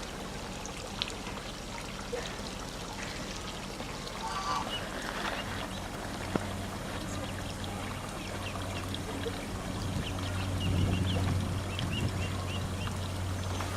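Call duck ducklings peeping, with many short high chirps in the second half and one louder call about four seconds in, over steadily pouring, trickling water. A low steady hum joins partway through.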